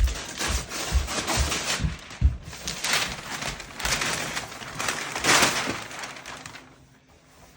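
Gift wrapping paper being torn and crumpled by hand, in repeated rustling rips, with a few dull knocks in the first couple of seconds. It dies down near the end.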